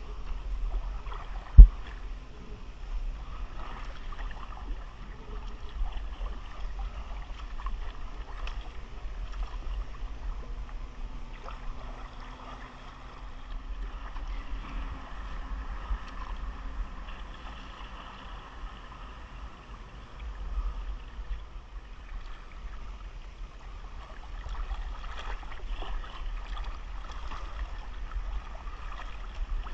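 Water splashing and trickling from kayak paddle strokes, over a low rumble. A single sharp knock about a second and a half in.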